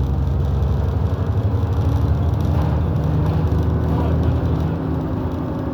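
Bus engine and drivetrain running, heard from inside the cabin of a moving London bus: a steady low hum with a faint steady whine over it.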